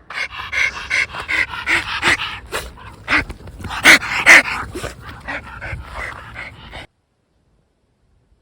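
A pet dog vocalising in a quick run of short whines and yips with panting between them, two of them loudest about four seconds in. The sound cuts off suddenly near the end.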